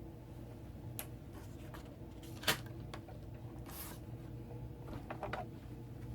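Craft materials being handled on a work table: a few small clicks and taps, the sharpest about two and a half seconds in, and a brief papery rustle about a second later, over a low steady hum.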